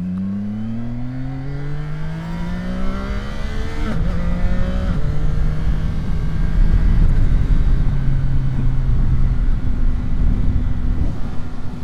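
CFMOTO 675SR-R's inline-triple engine pulling hard with rising pitch. About four seconds in the pitch drops sharply on a quickshifter upshift, and the engine then runs at a steadier note under growing wind rush.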